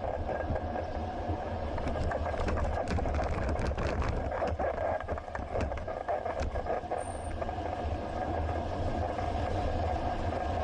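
Riding noise picked up by a bicycle-mounted action camera: steady wind rumble on the microphone and rolling noise, with a run of sharp rattles and clicks from about two to seven seconds in.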